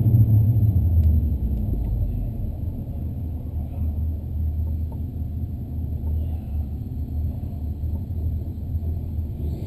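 Holden VY Commodore SS's 5.7-litre LS1 V8 idling, heard inside the cabin: a steady low rumble that eases down over the first couple of seconds and then holds level.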